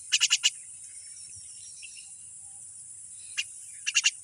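A steady, high-pitched insect drone, broken by short rapid chirping calls in bursts of three or four: one burst at the start and another near the end, with a single chirp between them.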